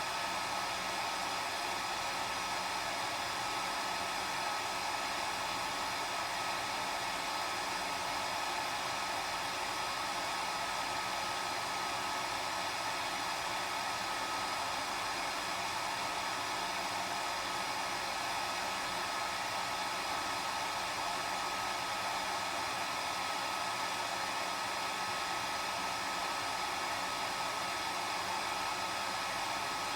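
Hair dryer running steadily: an even blowing hiss with a steady motor whine.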